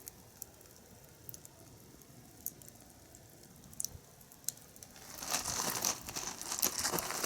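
Wood fire crackling: scattered small pops at first, then about five seconds in a much louder, dense crackling and rustling with many sharp snaps.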